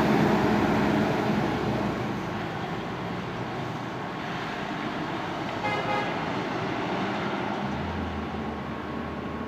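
Scania fire engine's diesel engine pulling away and fading into road traffic noise, with one short horn toot about six seconds in.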